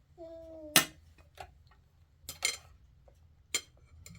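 Dishes and utensils clinking and knocking: three or four sharp clinks, the loudest about a second in, preceded by a brief pitched tone.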